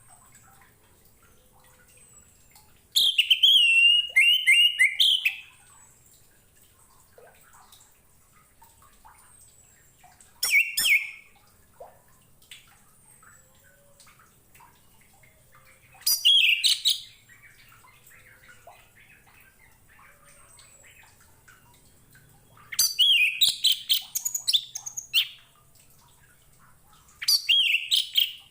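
Orange-headed thrush singing in short bursts of fast, warbled whistling phrases, five phrases separated by pauses of a few seconds, with faint chirps in the gaps.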